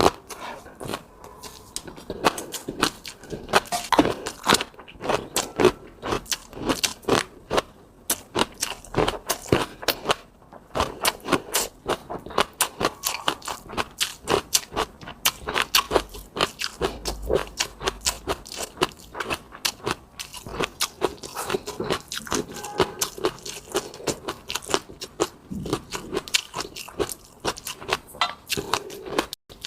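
Close-miked eating: wet chewing and mouth clicks, several a second, with occasional crunches.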